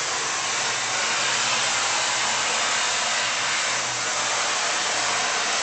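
Vacuum cleaner running steadily: an even rush of air with a low hum under it.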